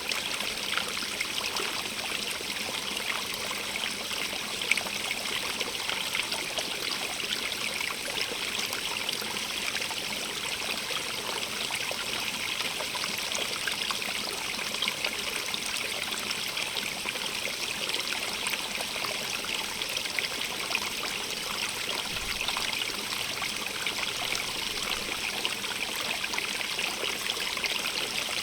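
Natural running water flowing steadily: an even, unbroken rush, brightest in its higher hiss.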